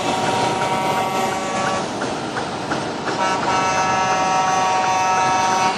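Truck air horns sounding long, steady held blasts: one dies away a couple of seconds in and another starts about three seconds in, over a steady background rumble.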